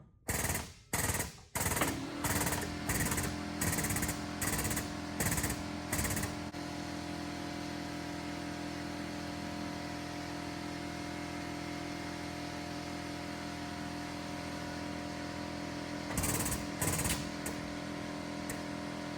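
Frame machine's hydraulic pump driving the pulling ram, working in sharp hissing strokes about one and a half a second, then stopping about six seconds in, with two more strokes near the end. Under it a steady motor hum runs on throughout as the frame is held under tension.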